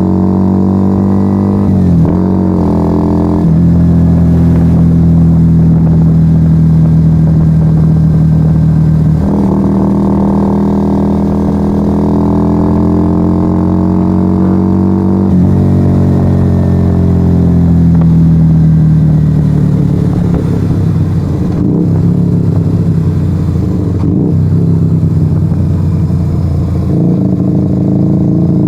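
1997 Yamaha XV125 Virago's small V-twin running loud through a straight-piped Turbo Kit exhaust with no dB killers, under way on the road. Engine speed changes sharply twice early on, as at gear changes, then climbs steadily, drops off after about the middle, and settles to an even pull near the end.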